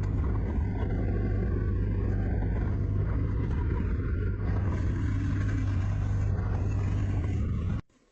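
Workshop power tool's electric motor running with a steady low hum, cutting off suddenly near the end.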